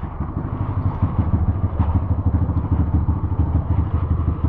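Dirt bike engine running steadily at low revs, a fast, even run of firing pulses.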